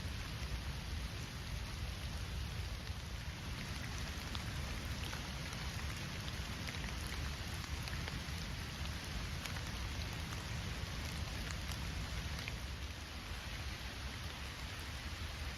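Steady rain falling, with single drops ticking sharply now and then, over a steady low rumble.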